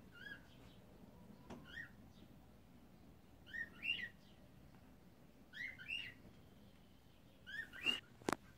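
Cockatiels giving short chirping calls, in pairs about every two seconds. A single sharp click sounds near the end.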